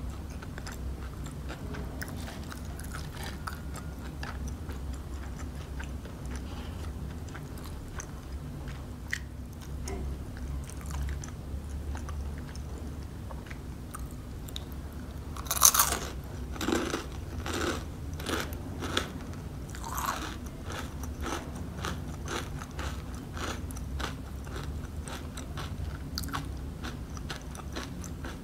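Close-miked biting and chewing of crispy-coated fried chicken. Soft crackly chewing for the first half, then one loud crunching bite into the breaded coating about halfway through, followed by a run of crunchy chews about twice a second that grow fainter.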